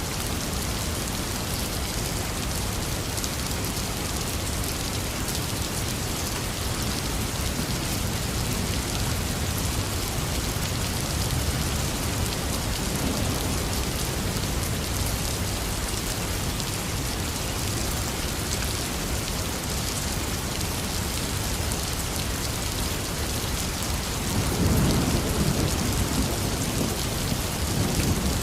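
Heavy rain falling steadily, with thunder rumbling faintly about halfway through and louder near the end.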